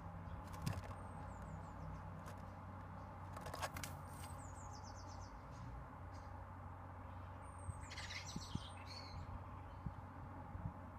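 Wild birds chirping: a few short, high calls, each a quick run of falling notes, about a second in, around four seconds in and again near eight seconds. Two sharp taps come about a second and three and a half seconds in, over a steady low background hum.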